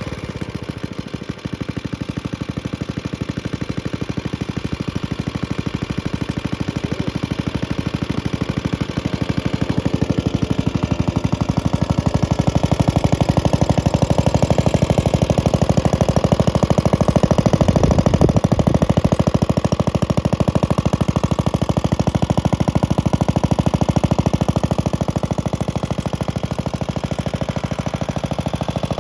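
Antique Briggs & Stratton model WI single-cylinder engine running steadily with evenly spaced firing beats after a choked cold start. It gets a little louder through the middle and eases off near the end.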